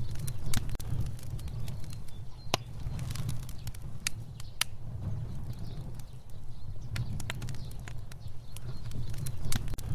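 Fire burning with a steady low rumble of flames and irregular sharp crackles and pops of burning wood.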